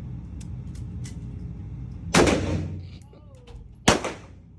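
Two gunshots about a second and a half apart, sharp cracks that ring on with reverberation after each one.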